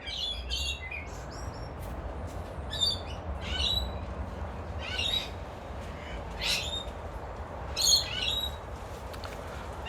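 Parrots calling: short clusters of high, chattering calls repeated every second or so, over a low steady rumble.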